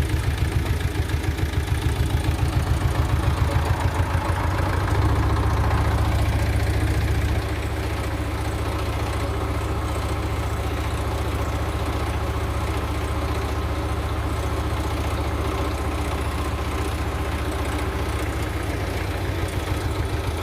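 Diesel engine of a Mitsubishi Canter dump truck running at idle with a low, even throb; it runs louder and steadier for a couple of seconds about five seconds in, then settles back.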